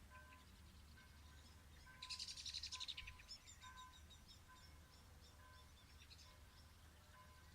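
Songbird singing: a fast trill about two seconds in, then a run of short high chirps. Faint distant church bells strike repeatedly underneath.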